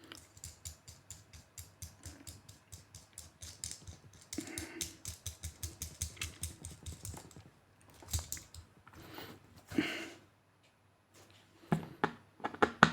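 A quick run of small clicks, about six a second, from a precision screwdriver working on an external drive's casing. A few louder knocks come about two-thirds in, then a short pause before the clicking resumes.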